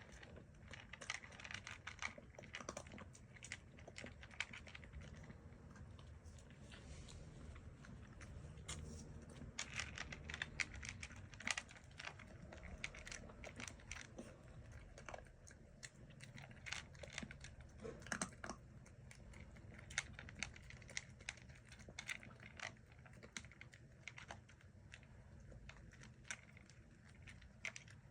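Bichon Frise puppy eating its food, chewing and crunching fast with many quick irregular clicks, bowl or kibble ticks mixed in, faint throughout.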